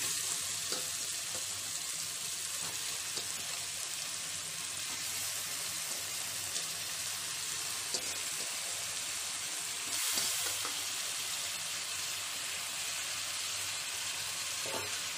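Onion-tomato masala frying in sesame oil in a metal pot, a steady sizzle, with raw prawns just added on top. A few faint clicks come through the sizzle.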